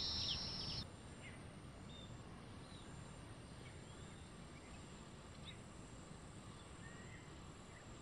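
Small birds chirping: a dense run of overlapping high chirps that cuts off abruptly just under a second in, then only scattered faint single chirps over a steady outdoor hiss.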